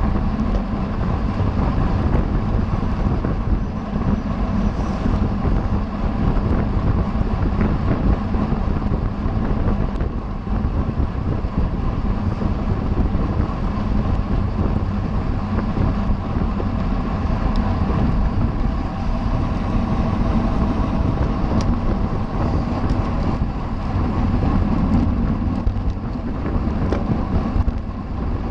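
Steady wind noise buffeting the microphone of a camera on a bicycle moving at race speed.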